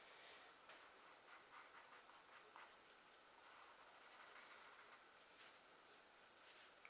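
Faint pencil scratching on drawing paper in short, irregular strokes as tree trunks are sketched.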